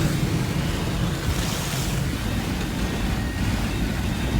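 Steady road noise of a car driving in heavy rain: a low rumble with the hiss of tyres on the wet road and rain, swelling briefly about a second and a half in.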